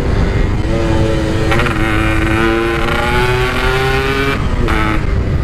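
Yamaha RX-King's single-cylinder two-stroke engine pulling hard at high road speed, its note climbing slowly. About four seconds in it briefly drops out, then comes back at a lower pitch. Heavy wind rumble on the microphone.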